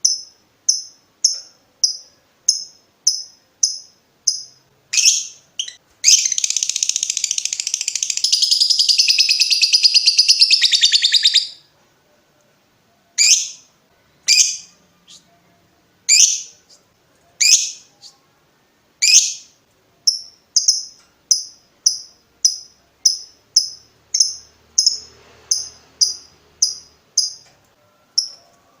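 Lovebird giving short, sharp high chirps repeated about twice a second (the 'ngetik' call). About six seconds in, it breaks into a long unbroken chattering trill lasting some five seconds (the 'ngekek'). Spaced single calls follow, then another quick run of chirps.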